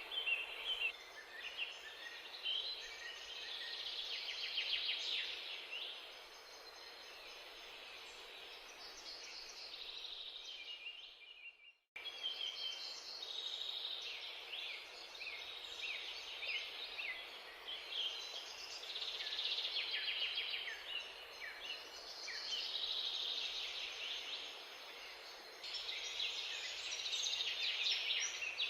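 Many birds chirping and twittering in a dense, busy chorus over a steady background hiss, broken by a sudden cut about twelve seconds in.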